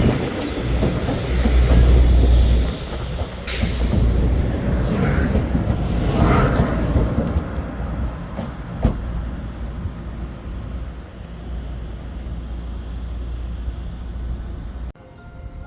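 Train passing through the station without stopping: a loud rumble of wheels on rail, heaviest in the first few seconds, with a brief sharp hiss about three and a half seconds in. The rumble then slowly fades and cuts off abruptly near the end.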